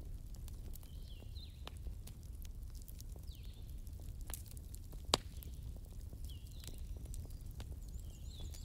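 Small birds chirping in the background, short falling calls every couple of seconds with a quick run of repeated chirps near the end, over a low steady rumble. Scattered light clicks, one sharp click about five seconds in.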